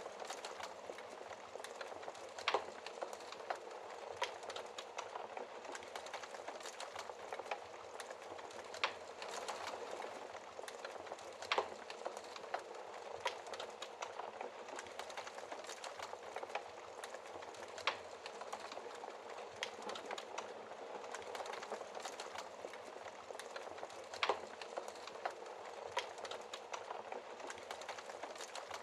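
Wood fire burning in a fireplace: a steady crackling hiss with many small irregular ticks and a louder sharp pop every few seconds.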